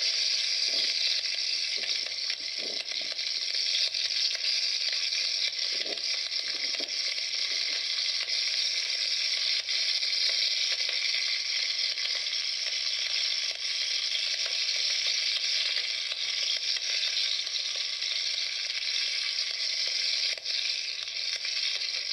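Wood campfire burning hot, giving a steady hiss with a few faint pops in the first several seconds.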